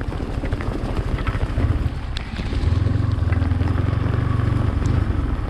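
Yamaha MT-15's single-cylinder engine running as the bike rides a flooded dirt track, pulling harder for about three seconds in the middle, with wind on the microphone.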